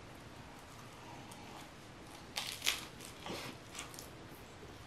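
Faint close-miked chewing of a lettuce wrap of steak and noodles, with a few short crisp crunches in the second half.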